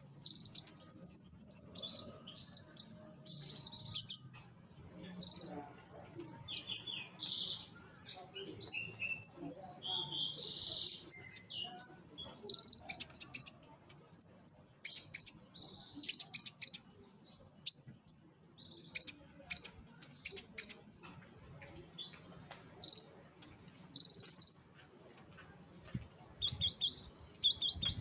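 Black sunbird singing a busy, fast song of high chirps, sharp notes and short trills, almost without pause.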